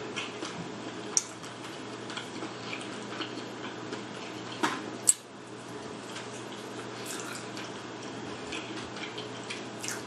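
Mouth sounds of eating tandoori chicken on the bone: chewing and lip smacking with many small wet clicks, and two sharper, louder clicks about a second in and about five seconds in.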